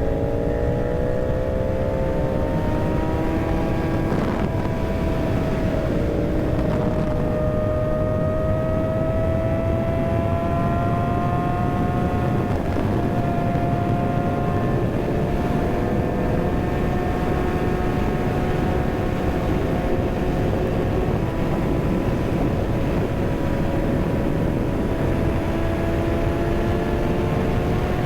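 Kawasaki ZX-6R's inline-four engine pulling steadily while riding, its pitch climbing gently for the first several seconds and then holding fairly level, over a constant rush of wind noise on the microphone.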